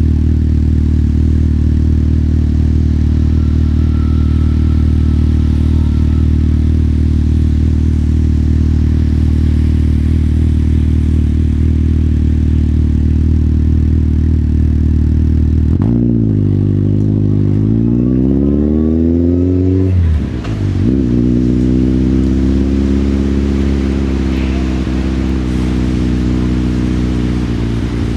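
Motorcycle engine running steadily at low revs for about sixteen seconds, then its pitch climbs as the bike pulls away. A short drop about twenty seconds in sounds like a gear change, then the engine settles to a steadier pitch.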